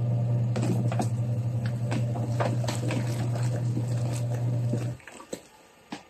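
Mini washing machine's motor humming steadily as it agitates a wash load, with water sloshing and splashing in the tub; the motor stops about five seconds in, a pause in the wash cycle.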